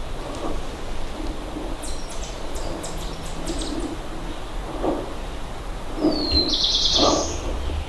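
Small woodland songbirds calling outdoors: a quick series of high chips a couple of seconds in, then a high falling note that breaks into a buzzy trill near the end. Low wind rumble on the microphone underneath.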